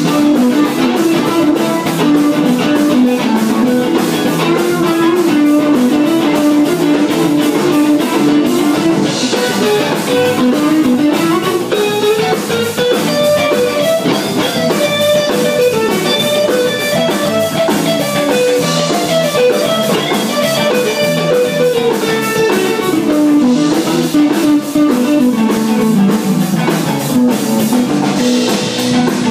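Live band jamming: a guitar plays a melodic line over a drum kit, climbing in pitch through the middle and falling back near the end.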